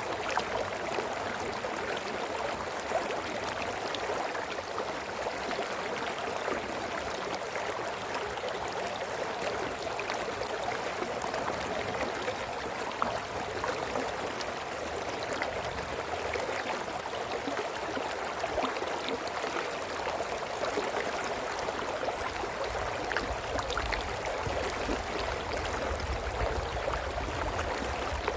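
Brook babbling steadily over stones, a constant rushing of water flecked with small splashes and drips.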